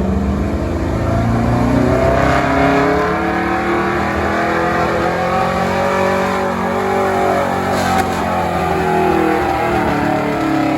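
Stock gas pickup truck engine at high revs pulling a sled, its pitch wavering up and down under load.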